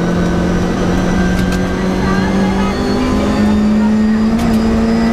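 Rally car engine running hard under load, heard from inside the cabin, its pitch climbing slowly as the car accelerates, with a few sharp ticks over the steady rumble.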